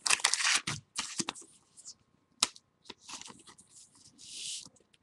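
Trading cards and their pack wrapper rustling and sliding as they are handled, busiest in the first two seconds, with a single sharp click about two and a half seconds in and a brief sliding swish near the end.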